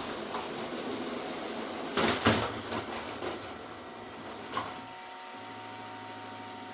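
LEGO City trains 60197 and 60337 running on plastic track, then a burst of loud plastic clattering about two seconds in as the two trains collide. A single smaller clack follows near five seconds, after which the rumbling gives way to a steady hum.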